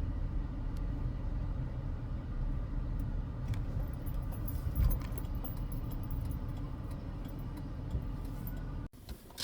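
Steady low rumble of a car's engine and road noise, heard from inside the car, with a few faint ticks; it cuts off abruptly near the end.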